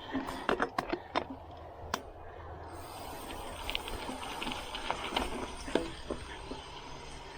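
Bicycle tyres rolling through mud and over sticks on a trail, with a cluster of sharp clicks and snaps in the first two seconds, then a steady rolling hiss with scattered light ticks.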